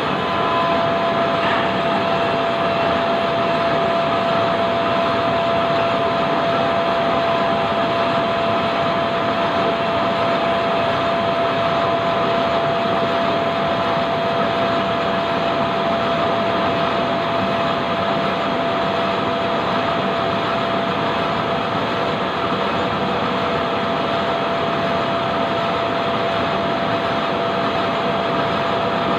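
Lathe running steadily, a constant machine noise with a steady whine through it.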